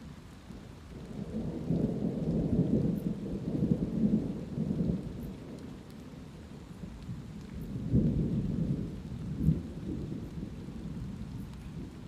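Thunder rumbling over steady light rain: a long low roll builds about a second in and rolls on for several seconds, then a second, sharper clap near the middle that rumbles away over about two seconds.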